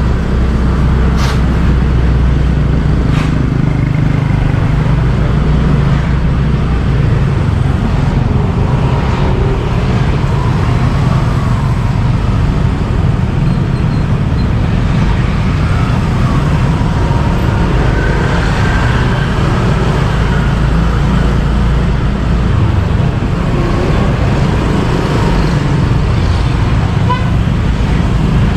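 Motorbike riding through city traffic, heard from the bike: a steady low engine-and-road rumble with other vehicles around it. Two sharp clicks sound in the first few seconds.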